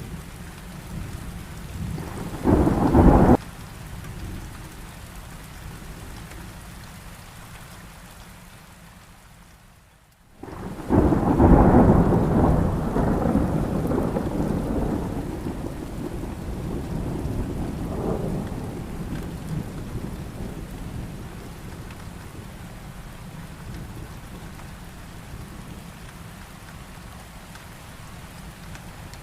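Heavy rain falling steadily, with a short, sharp thunderclap about three seconds in. The sound drops away briefly near the ten-second mark, then a long rumble of thunder breaks in about eleven seconds in and rolls away slowly over the next several seconds.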